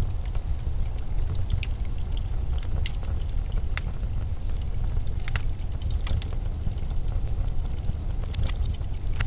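Blizzard wind ambience: a steady, deep rumble of wind, with scattered sharp crackles and ticks over it.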